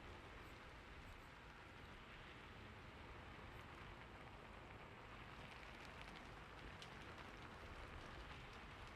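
Soft, steady rain, a faint even hiss with occasional light drop ticks.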